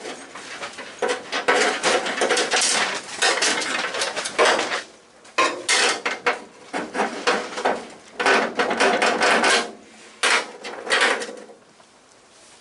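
Metal clattering and knocking in busy bursts, like tools and steel parts being handled and set down, with short lulls about five and ten seconds in.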